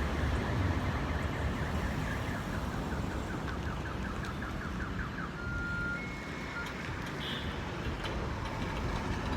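Steady traffic noise from a wet city street, a constant rumble of passing vehicles. About a third of the way in, a quick run of repeated chirps sounds for a couple of seconds, then two short high beeps.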